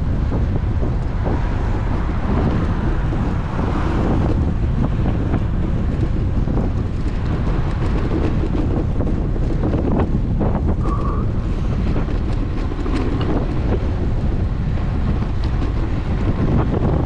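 Steady wind buffeting the microphone of an action camera on a moving road bike.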